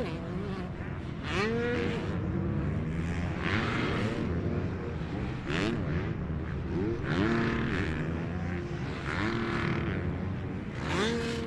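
Motocross bikes racing, their engines revving up, holding and dropping off again and again as the riders accelerate and back off, with several bikes overlapping.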